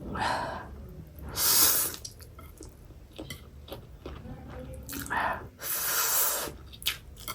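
Wet eating sounds close to the microphone: chewing and mouth noises in several short bursts.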